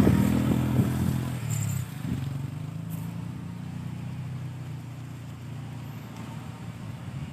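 A motor vehicle's engine running and fading over the first two seconds as it moves away, then going on faintly and steadily.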